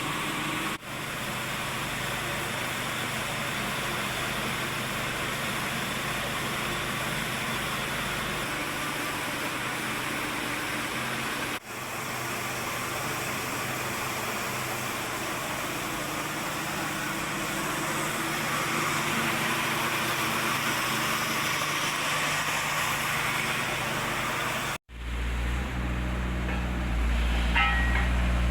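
Steady mechanical noise of running machinery, broken by a few abrupt cuts. After the last cut, about three seconds before the end, a deeper, steadier engine-like hum takes over and is louder.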